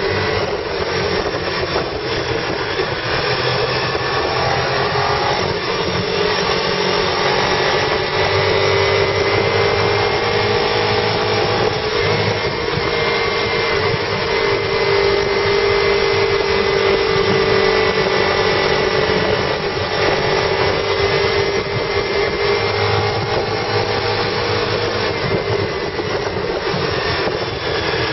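Car engine and road noise heard from inside the cabin while driving, with the transmission stuck in third gear. A steady drone whose pitch drifts gently up and down with road speed.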